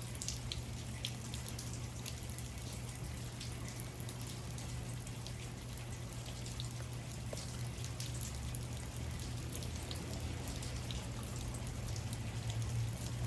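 Room tone: a steady low hum under faint, scattered light ticks and taps.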